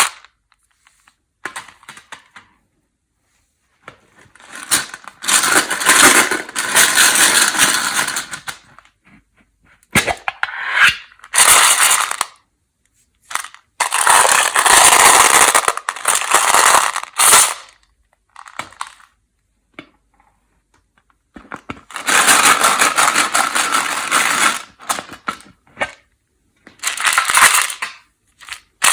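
Peanut M&M's and their plastic wrappers being handled, giving dense crackling and rattling. The sound comes in several bursts a few seconds long, with short silences between them.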